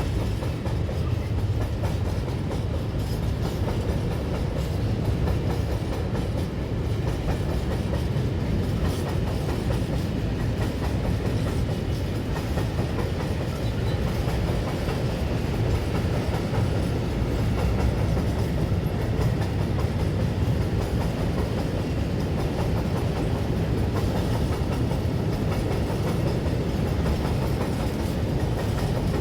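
A train running steadily along the track: a continuous low rumble that holds level without any break.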